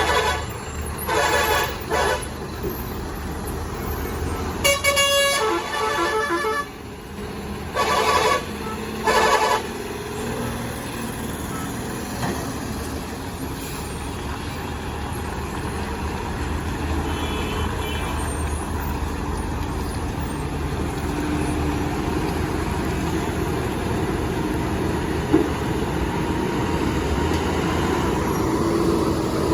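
Heavy vehicle running on the road, with about six loud horn blasts in the first ten seconds, one longer and changing in pitch about five seconds in, then only steady engine and road noise that slowly grows louder.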